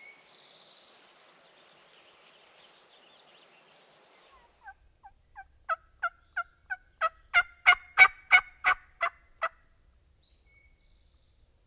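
Turkey yelping: a series of about fifteen short yelps, roughly three a second, that start faint and build louder over about five seconds.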